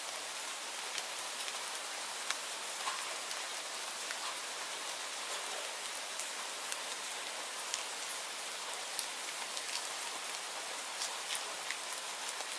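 Steady rainfall, an even hiss with many scattered sharp drop ticks on a hard surface.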